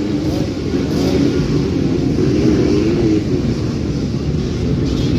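Motocross dirt bike engine revving, its pitch rising and falling as the throttle opens and closes.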